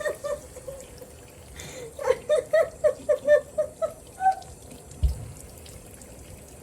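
Tap water running into a bathroom sink, with a person laughing in quick repeated bursts about two seconds in and a dull low thump about five seconds in.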